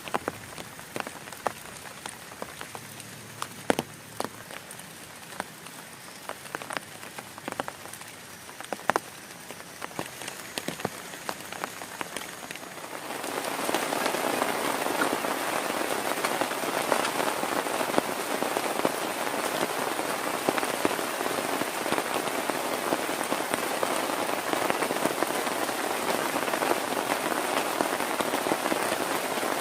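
Rain falling on a tent: at first scattered single drops tapping on the fabric, then a little under halfway through the rain picks up suddenly into a dense, steady downpour.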